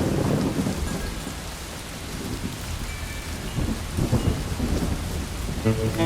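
Steady rain falling, with two rolls of thunder, one at the start and one about four seconds in. Sustained music tones come in just before the end.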